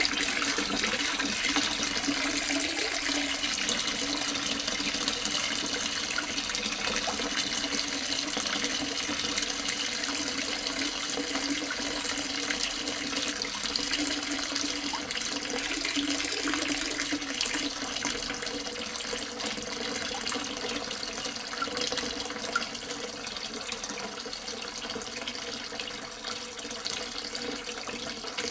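Water running steadily in a continuous stream, as from the mini water pump feeding or emptying the tank.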